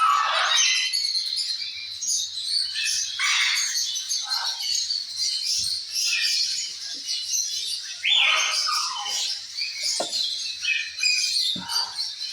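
Several parrots chattering, with constant high chirps and a few harsh squawks that sweep down in pitch; the loudest squawk comes about eight seconds in.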